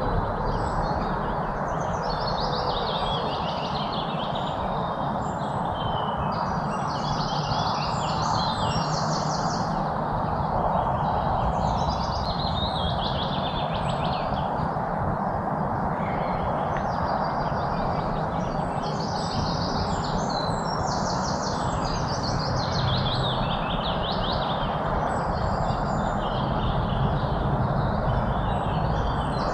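Songbirds chirping and singing in short, quick trilled phrases, one every second or two, over a steady low background rush of outdoor noise.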